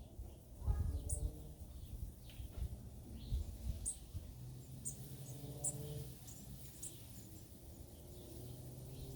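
Small birds chirping: short, high chirps scattered a second or so apart, over a low background rumble with a few dull thumps.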